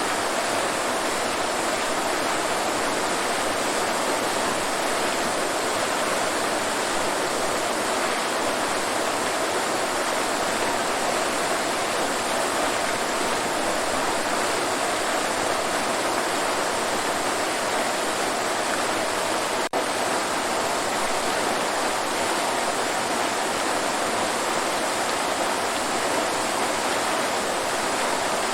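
Waterfall: a steady rush of falling water, with one momentary dropout about two-thirds of the way through.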